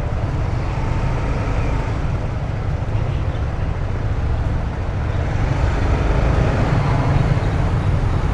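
A 150cc motorcycle engine running while being ridden through town, with wind and road noise; it gets a little louder about five seconds in.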